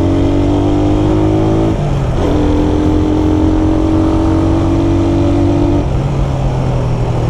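Suzuki Raider 150 carburetted single-cylinder four-stroke engine, heard from the rider's seat, pulling under throttle with its note climbing slowly, dropping about two seconds in, climbing again and falling away about six seconds in. Wind and road noise rush underneath.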